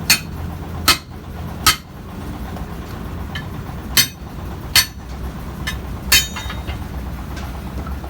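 Six sharp hammer blows on metal, each ringing briefly, coming in a quick pair, another pair, then a pair about 0.8 s apart again, over a steady low engine hum.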